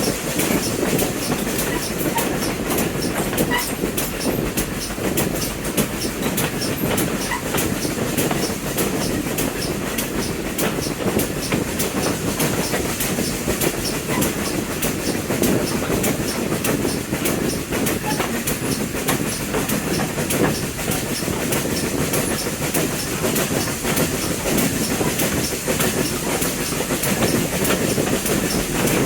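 Heritage train running steadily along the line: a continuous rumble with the clickety-clack of wheels over the rails.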